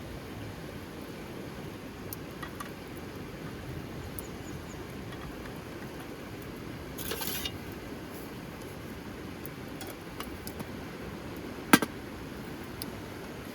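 Steady rushing of rain and river water, with scattered small clicks, a brief rattle about seven seconds in and one sharp knock near the end.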